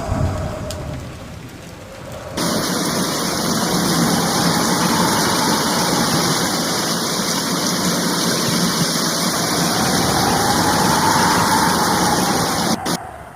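A thunder rumble dies away, then about two seconds in heavy rain starts abruptly and pours down steadily before cutting off suddenly near the end.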